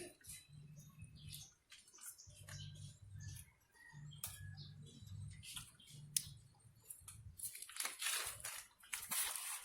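Domestic pigeons in a loft: low cooing in short repeated spells, over small clicks and scratches from birds being handled for leg-banding, with a louder burst of rustling or wing-flapping about eight seconds in.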